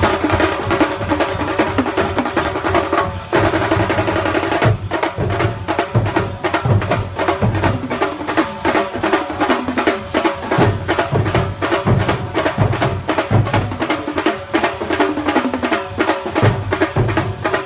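Thambolamelam percussion ensemble playing a fast, dense drum rhythm, with a steady pitched melody line sounding over the drums.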